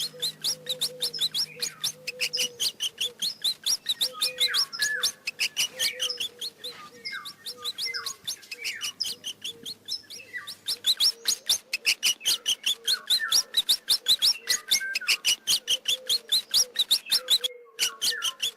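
A mouse squeaking: rapid, repeated high squeaks and chirps, about six a second, in several runs with short pauses.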